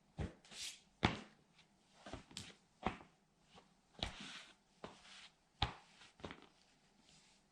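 Irregular sharp knocks and cracks, about ten of them, some trailing into brief scratchy crackles: a plastic toy military truck being stepped on and pressed under a rubber sandal sole against the floor.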